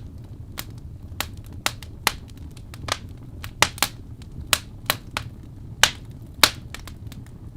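Wood fire crackling: irregular sharp pops and snaps, about a dozen, over a low steady rumble of the flames.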